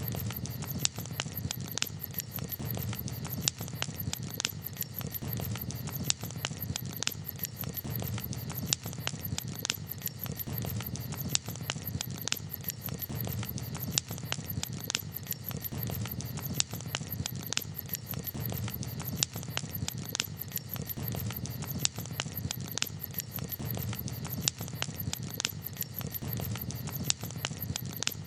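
Campfire crackling: a steady, irregular scatter of sharp pops and snaps over a low, steady rumble.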